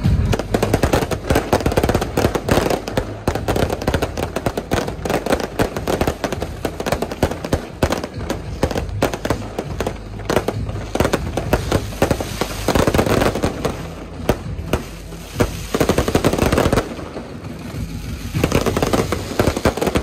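Strings of firecrackers going off in dense, rapid, continuous crackling, easing briefly a few times before picking up again, over a low steady drone.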